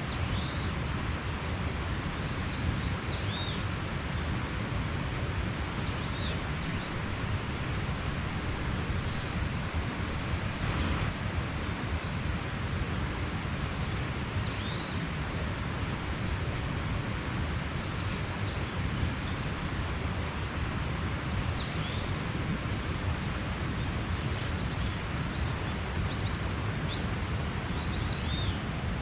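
Mountain stream flowing in a steady rush, with small birds chirping short high notes over it every second or two.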